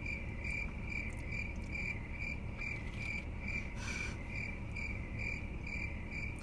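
Cricket chirping, an even high chirp repeating about two and a half times a second, starting suddenly over a low steady hum. A brief hiss cuts in about four seconds in.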